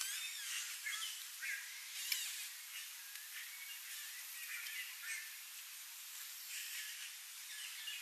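Several birds calling, a run of short chirps and gliding whistled notes over a steady high background hiss, with a single sharp tap about two seconds in.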